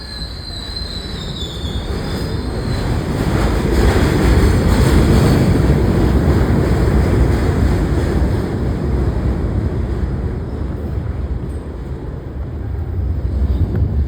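R68 subway train running on the rails. High wheel squeal in the first second or so, then a loud rumble that builds to its heaviest about four to six seconds in, eases, and builds again near the end.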